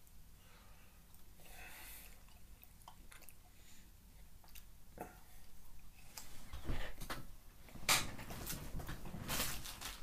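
A person biting and chewing a frozen fudge brownie ice cream bar close to the microphone: irregular mouth clicks and smacks, sparse at first and louder and more frequent in the last few seconds.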